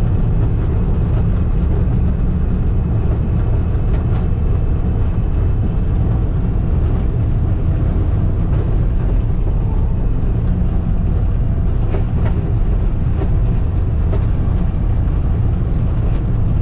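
Skid steer engine running steadily, a loud low drone, with a couple of faint knocks.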